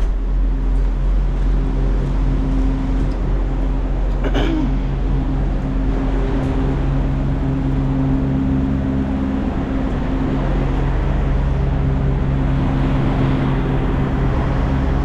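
Diesel engine running steadily at idle, with a short knock at the start and another about four seconds in.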